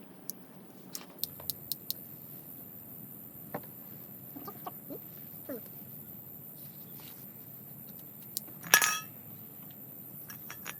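Small wood fire crackling, with scattered sharp pops and clicks. About nine seconds in there is one short, loud animal call.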